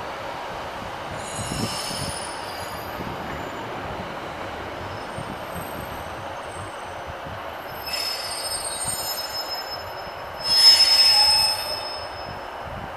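Class 156 Super Sprinter diesel multiple unit rolling slowly into a platform with a steady rumble. It gives short high-pitched squeals from its wheels and brakes as it slows on arrival: about a second and a half in, again around eight seconds in, and loudest for about a second near the end.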